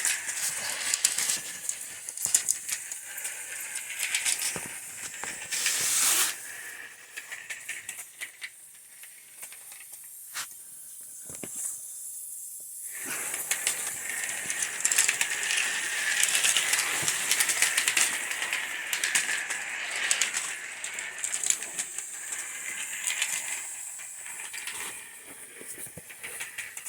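An antique live steam model locomotive built by Garlick around 1890, running: steam hissing with rapid small clicks and rattles. The hiss drops away for a moment about halfway through, then returns.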